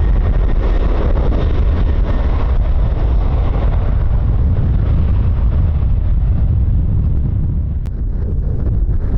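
Jet aircraft engine noise with heavy wind buffeting on the microphone; the higher part of the engine sound thins out over the last couple of seconds as the aircraft moves away.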